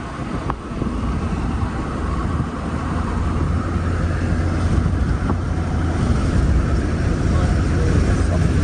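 Car driving, heard from inside the cabin: a steady low road-and-engine rumble that grows gradually louder.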